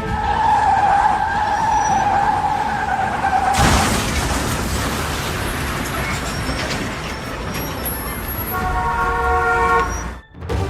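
A car horn held for a few seconds, then a sudden loud burst of noise about three and a half seconds in, followed by road and traffic noise, and a second horn blast near the end.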